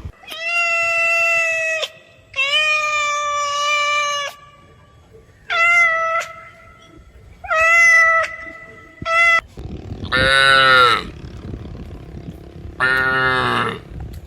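A series of animal calls: about five long, steady, high-pitched cries in the first nine seconds, then two louder, lower calls whose pitch rises and falls.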